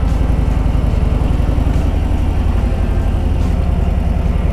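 Harley-Davidson Road Glide's V-twin engine running, a steady low rumble with a rapid pulse.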